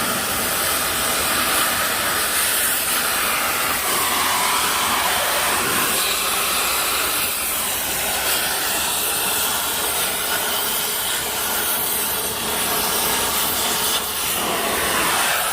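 Oxy-fuel cutting torch hissing steadily as it blows away steel from an H-beam, removing the parts where the split logs catch.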